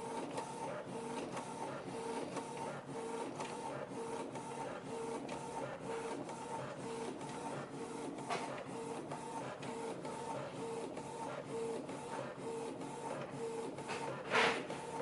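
Canon MG2490/MG2590-series inkjet printer running, its mechanism whirring in a regular pattern about twice a second. Near the end there is one louder short clatter.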